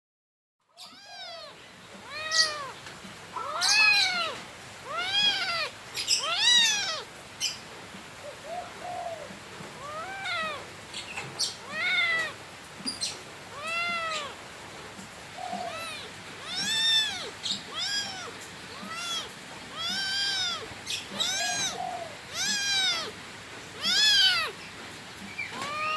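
A cat meowing over and over, starting about a second in: a steady string of separate meows, each rising and falling in pitch, about one a second, some much louder than others.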